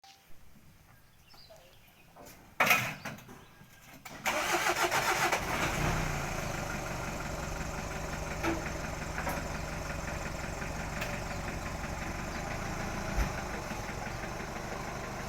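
A vehicle engine starting about four seconds in, with a few uneven pulses as it catches, then settling into a steady idle. A single sharp knock or thud comes shortly before it.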